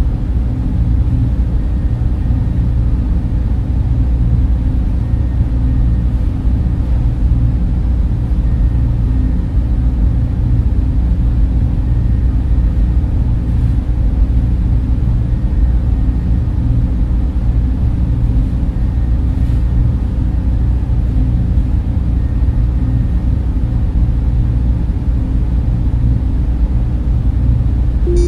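Server-room cooling fans running steadily, a constant deep hum and rush.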